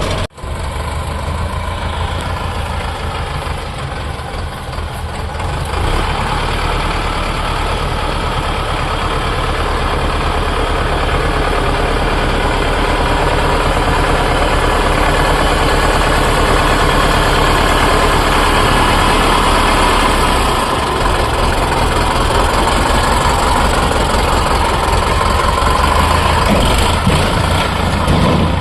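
Sonalika tractor's diesel engine running steadily, getting louder about six seconds in.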